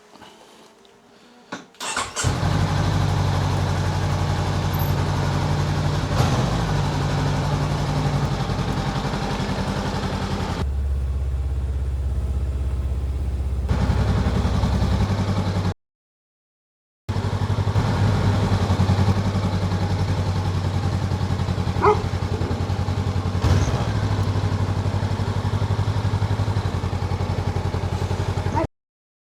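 Enduro motorcycle engine running steadily, in several clips cut together. It starts abruptly about two seconds in, drops to a lower pitch for a few seconds near the middle, and cuts out briefly twice.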